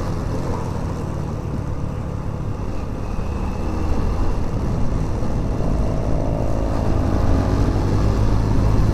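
Wind rumbling on a helmet microphone while riding a motorcycle, with the bike's engine running underneath. The rumble grows a little louder about halfway through.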